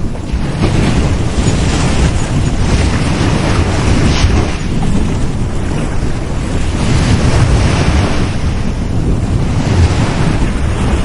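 Sea surf on a beach: waves breaking and washing in a continuous rush that swells and eases every few seconds, with wind rumbling on the microphone.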